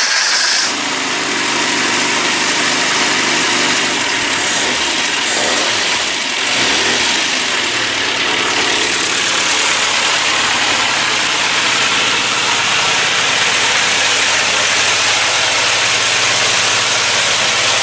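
Classic Mini's 1293 cc A-series race engine running from cold on choke, just after its cylinder head was refitted with new valve springs. Engine speed wavers a few seconds in, then settles into a steady fast idle as it warms up.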